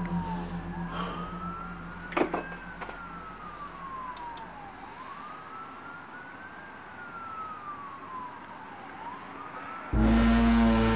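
A wailing tone, presented as a strange sound in the sky, rises quickly and falls slowly in pitch, about once every three seconds. A single sharp click comes about two seconds in. Near the end, a loud, steady low hum with overtones starts abruptly.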